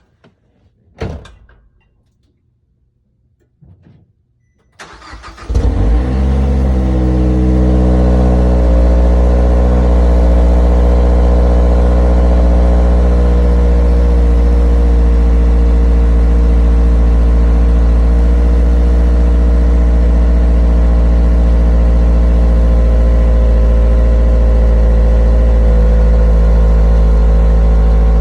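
2013 Mazdaspeed3's turbocharged 2.3-litre four-cylinder cold-started after sitting about twelve hours: a click about a second in, a short crank about five seconds in, then the engine catches and settles into a steady fast cold idle, its note easing slightly around eight seconds.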